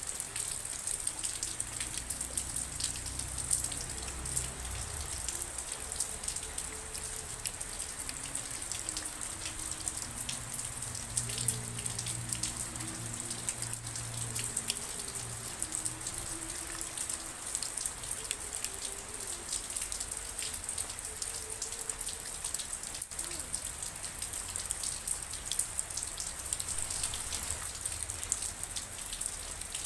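Steady rain with a dense patter of individual drops striking a surface.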